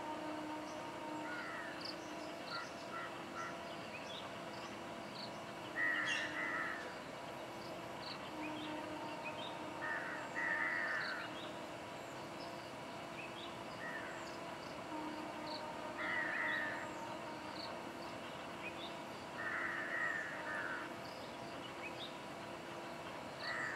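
Outdoor ambience of birds calling: a harsh call repeated in short runs every four to six seconds, with faint higher chirps between, over a steady faint hum.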